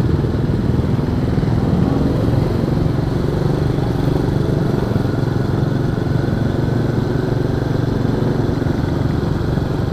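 Honda Astrea Star's small four-stroke single-cylinder engine running steadily under way, heard from the rider's seat.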